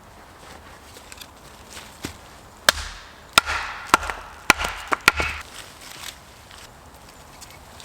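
Wood being chopped: about six sharp woody knocks in quick succession over two and a half seconds, starting near the middle, with a splintering crackle after some strikes.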